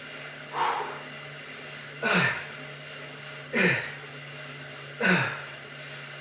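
A man's short, forceful vocal bursts, one every second and a half in time with his lifting reps, each falling in pitch: grunted exhales or clipped counts. A steady low hum runs underneath.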